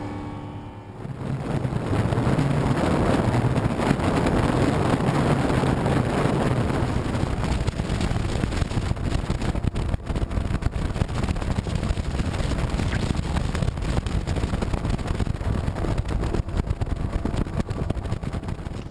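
Boat motor running at speed with heavy wind rush over the microphone; it builds up over the first second or two, then holds steady.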